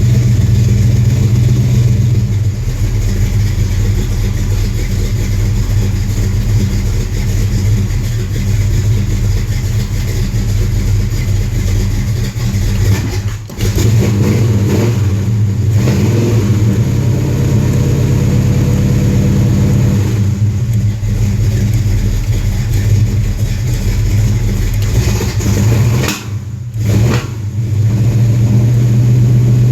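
A classic car's engine running steadily while still cold, with the throttle pedal worked; the engine sound drops away sharply and briefly twice, about halfway through and near the end.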